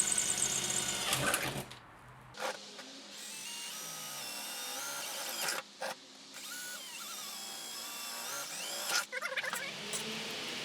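Electric drill running in spurts while drilling holes in the furnace lid, its motor whine rising and falling in pitch. It is loudest in the first two seconds.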